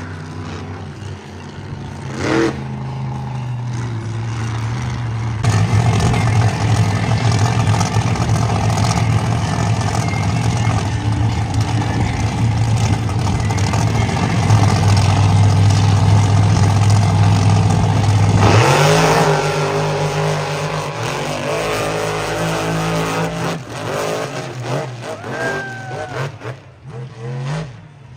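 Monster truck engines running hard: a steady heavy drone that grows louder about a third of the way in, then falls away about two-thirds through into revs that rise and fall.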